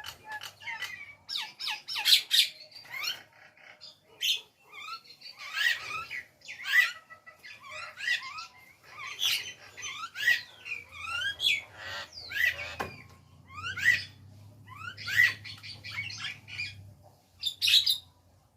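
Jalak nias myna calling: a steady run of short squawks and whistles, many sliding up or down in pitch.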